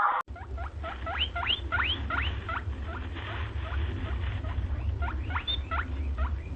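A small animal squeaking over and over: short, quickly rising squeaks, two or three a second, over a steady low hum.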